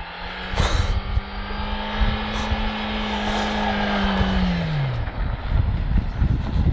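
Toyota RAV4's 2.0-litre 16-valve four-cylinder engine held at high revs while drifting on snow, its note steady and rising slightly, then dropping away about four and a half seconds in as the revs fall. A low rumble of wind on the microphone runs underneath.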